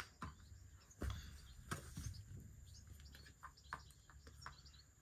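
Faint bird chirps over a quiet background, with a few soft clicks.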